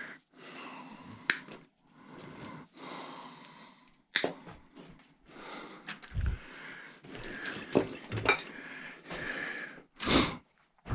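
Scrap wire and metal pieces being handled and sorted by hand: intermittent rustling and scraping, several sharp clicks, and a dull thud about six seconds in.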